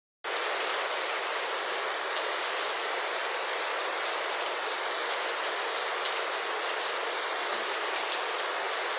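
Heavy rain falling steadily on foliage and a wet paved surface: a dense, even hiss with a few single drops standing out now and then.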